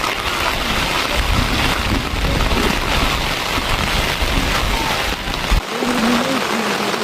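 Steady rain falling, a dense even hiss, with a deep rumble underneath that cuts off suddenly about five and a half seconds in. A voice comes in near the end.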